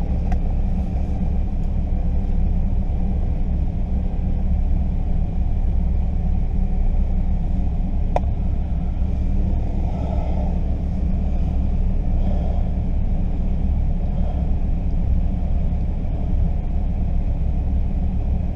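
Steady low rumble of an idling vehicle engine, with a single sharp click about eight seconds in.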